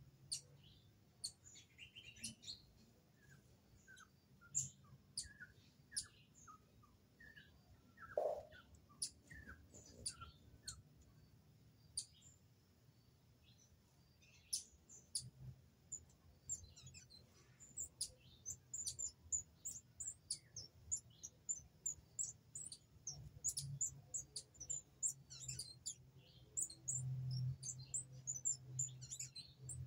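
Small birds chirping and calling in the undergrowth: scattered short, high notes, with one lower, louder call about eight seconds in. The chirping becomes a busy, rapid patter of very high notes in the second half.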